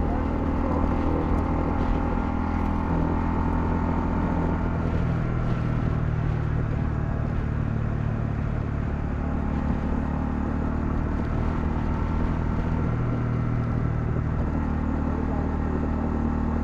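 Honda CL250 motorcycle engine running steadily on the move. Its note shifts about four and a half seconds in, then holds steady again.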